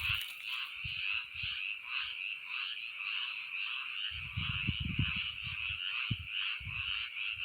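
Chorus of many frogs calling at once, a dense, continuously pulsing trill. Low rumbles come and go beneath it, strongest about four to five seconds in.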